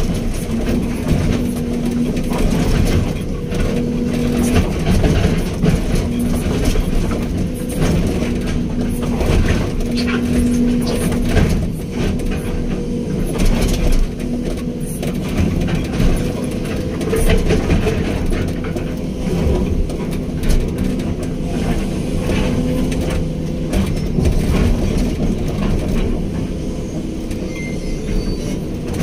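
Hydraulic excavator working: the diesel engine runs steadily under load with a held hydraulic whine, and frequent metal clanks and rattles come through it.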